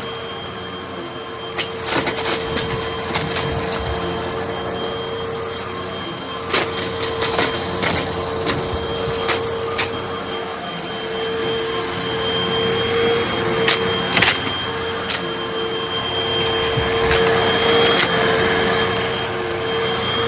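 Hoover vacuum cleaner running with a steady motor whine while it sucks up small crunchy debris, which crackles and clicks irregularly as bits are pulled in.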